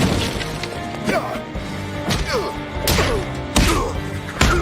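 Cartoon fight-scene soundtrack: dramatic background music with a series of punch and impact sound effects, about one every second.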